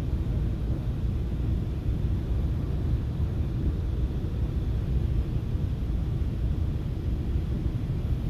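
Steady low rumble inside a FrontRunner commuter train car, the running noise of the train moving along the track.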